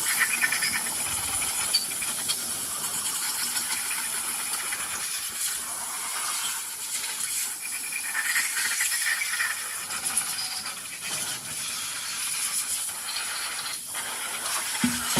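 A steady, high-pitched hiss with a light rattle through it.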